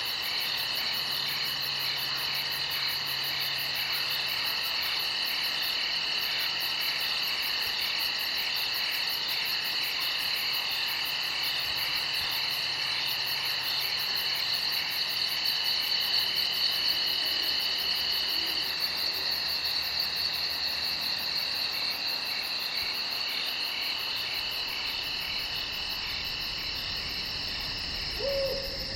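Crickets chirring at night: a steady chorus of several insects holding high, finely pulsing tones. Right at the end comes a short, lower call.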